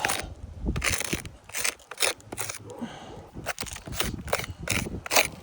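Irregular crunching, crackling and scraping on an asphalt shingle roof: handling of, or steps on, the gritty 3-tab shingles.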